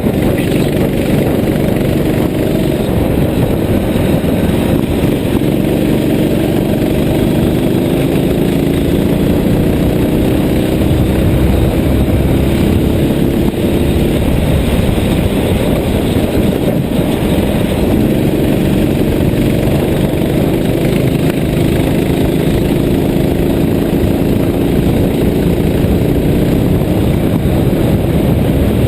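A vehicle engine running steadily, its pitch drifting slowly up and down, over a constant dense noise.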